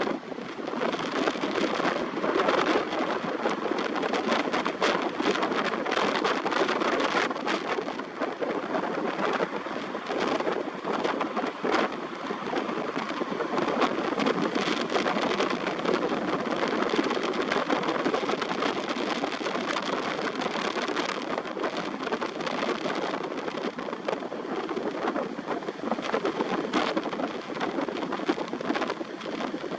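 Steady, loud roar of strong wind and heavy surf at the seashore, with constant crackling from wind buffeting the microphone.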